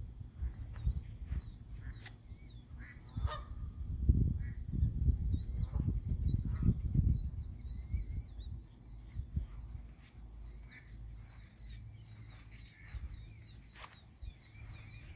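Geese honking now and then, short separate calls. A rumble of wind on the microphone comes through strongly about four to seven seconds in, and a faint high chirping runs steadily underneath.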